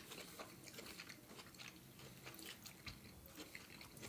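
Faint close-up chewing of a mouthful of gnocchi with the mouth closed, a scatter of soft irregular clicks.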